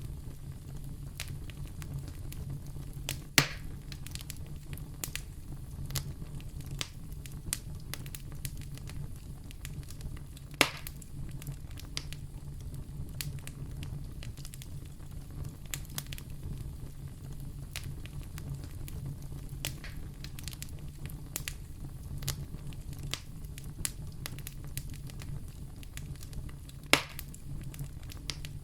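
Fireplace fire crackling: many small crackles over a steady low rumble, with three louder pops, one a few seconds in, one about ten seconds in and one near the end.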